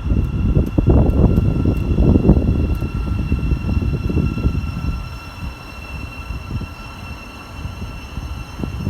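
A train passing through the station, its rumble loud for the first few seconds and then easing off.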